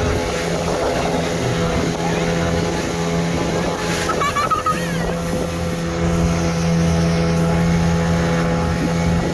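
Motor boat engine running at a steady pace, a continuous even hum, with wind buffeting the microphone.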